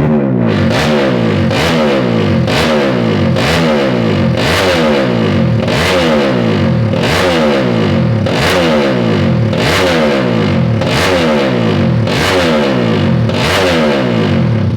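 Tuned 200cc underbone drag-bike engine revved in repeated sharp throttle blips, about one a second, its pitch jumping up and falling back after each.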